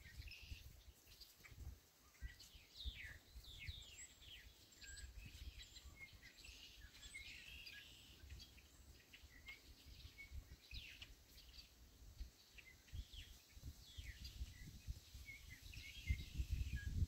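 Faint songbird chirping: many short, quick falling notes scattered throughout, over a low background rumble.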